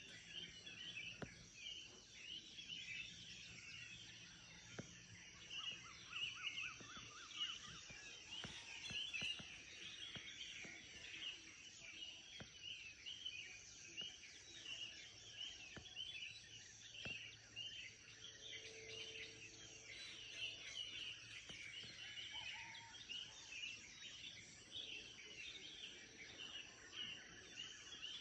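Morning bird chorus: many birds chirping and calling in quick, repeated short notes, faint, over a steady high-pitched tone. A brief run of rapid lower notes comes about six seconds in.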